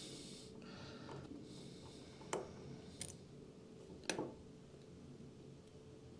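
Faint hand-tool work on an S&S carburetor's spring-loaded diaphragm cover: screws being taken out and small metal parts handled, with brief rustling hiss in the first two seconds and three sharp clicks about two, three and four seconds in.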